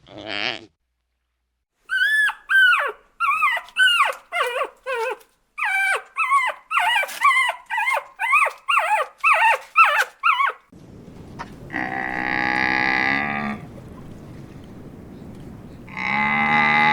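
Animal calls: a quick series of about fourteen short, high yelping calls, each falling in pitch, followed by two long, lower calls, one of them at the very end.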